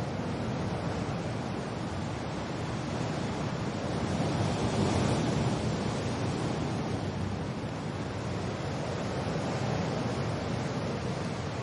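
Wind blowing with steady rain, a continuous rushing noise that swells in a gust about halfway through and then eases back.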